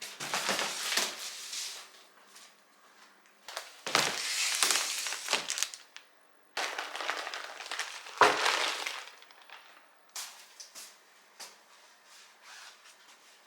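Plastic shopping bags and packaging rustling and crinkling in three bursts as groceries are handled, then a few light clicks and taps.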